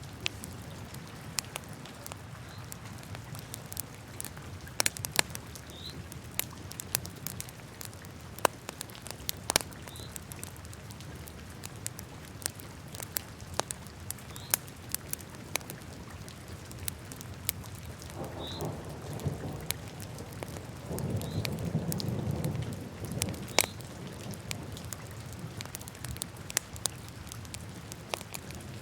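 Wood fire burning in a fireplace: irregular sharp crackles and pops over a steady low rumble of flames. About two-thirds of the way through, the flames surge louder for a few seconds.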